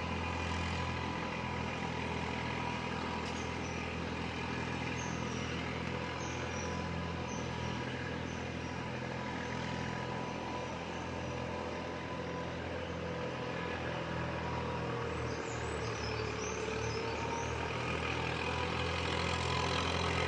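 A small engine running steadily with an even hum, with a few short high chirps twice along the way.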